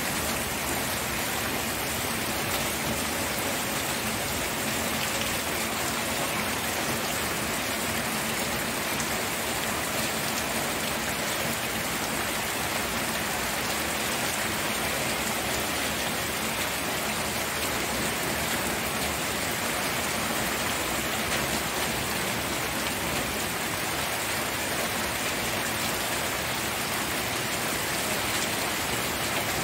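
Steady rain falling, an even hiss of drops without breaks.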